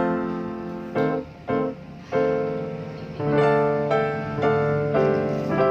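Background piano music: a slow tune of struck notes and chords, each ringing and fading before the next.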